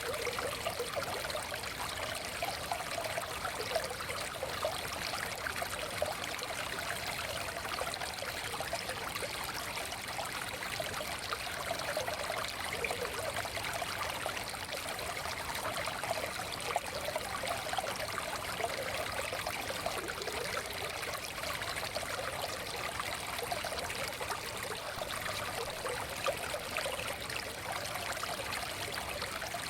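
Shallow forest stream flowing steadily, a continuous burbling rush of water over stones.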